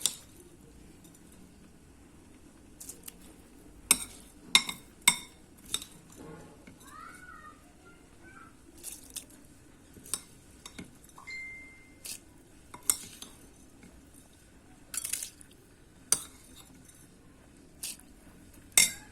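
Metal utensil clinking against a cooking pot in scattered, irregular sharp clinks as rice and ingredients are added to the boiling water.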